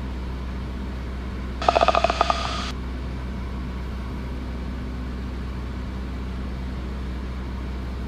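Steady low drone of a Cessna 172S's engine heard through the headset intercom. About a second and a half in, a short buzzy electronic tone pulses in the headset for about a second.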